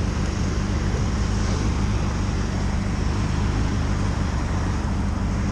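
Motorcycle being ridden on the road, with engine and road noise running steadily and unbroken.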